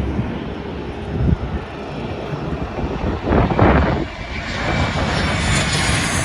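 A Boeing 717's twin rear-mounted turbofan engines rumbling as the jet flies past. A louder surge comes about halfway through, and a rising jet hiss builds over the second half.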